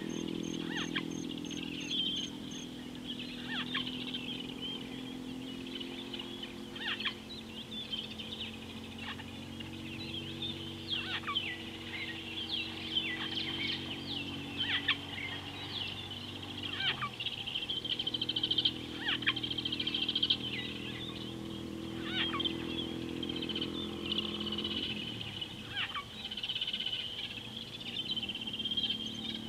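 Wild birds calling: many short whistles falling steeply in pitch, repeated every second or two over a constant high chatter. A low steady hum runs underneath.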